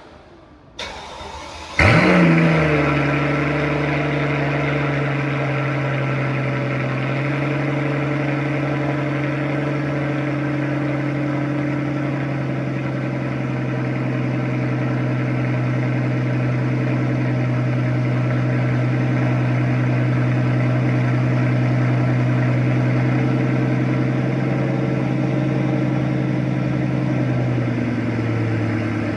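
Cold start of a 2006 Mercedes-Benz SL65 AMG's twin-turbo V12: the starter cranks for about a second, the engine catches with a sharp flare in revs, then settles into a steady high cold idle. The idle drops a little twice, once several seconds in and again near the end, as the engine warms.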